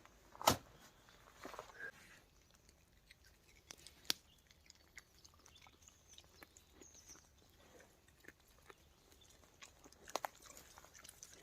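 Young wild boar chewing and rooting in forest litter: faint, irregular crunches and clicks, with a sharp snap about half a second in and another about four seconds in.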